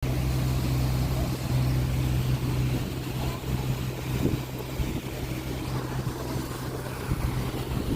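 Motorboat engine running steadily as a low hum, with rushing wind and water noise; the hum weakens in the middle and comes back near the end.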